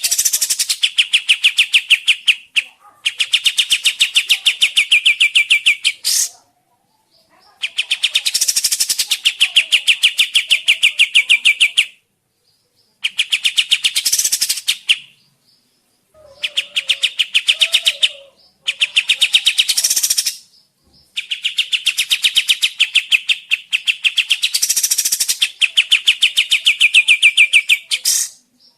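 Kapas tembak songbird singing long, fast chattering trills of rapidly repeated notes. The phrases last a few seconds each and are broken by short pauses, about seven times.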